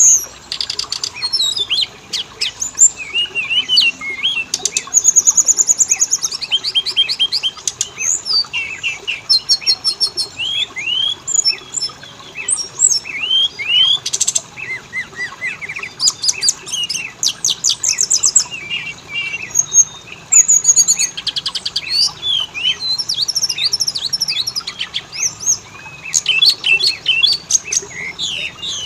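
Oriental magpie-robin (kacer) singing a continuous, varied song of rising and falling whistles, fast rattling runs of repeated notes and short chattering phrases. It is a lure recording meant to set other kacer singing.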